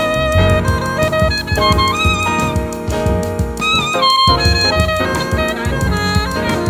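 Live jazz quartet playing: an alto saxophone carries a melodic line with sliding notes over piano, bass and a drum kit keeping time.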